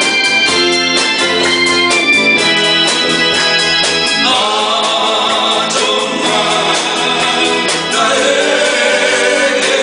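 A live band plays a Korean 7080-era pop ballad, led by sustained electronic organ or keyboard chords. About four seconds in, a wavering melody line with vibrato comes in over the chords.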